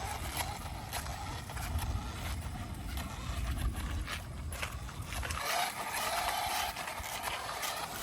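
Electric 1:8 RC buggy driving on wet ground: its motor whine rises and falls, over a scatter of clicks and a low rumble that drops away about five seconds in.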